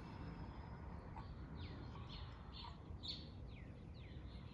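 A bird chirping faintly in a quick run of short falling notes, about three a second, starting about a second and a half in.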